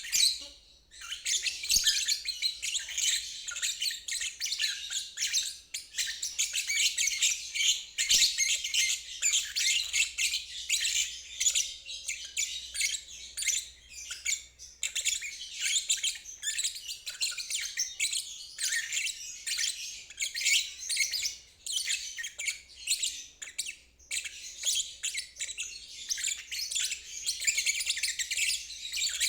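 Lovebird singing its long ngeriwik song: a continuous stream of rapid, high-pitched twittering with only brief pauses.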